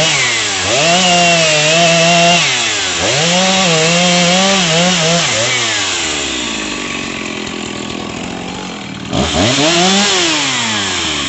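Two-stroke chainsaw revved to full speed and let back down several times in quick bursts. It then settles lower and quieter, and gets one more short rev about nine seconds in.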